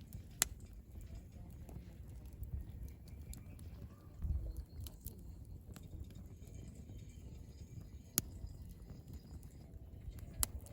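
Wood campfire crackling, with a few sharp pops standing out over a low rumble.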